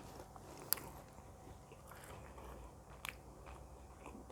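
Faint chewing and biting of food close to the microphone, with two short sharp mouth clicks, one under a second in and one about three seconds in.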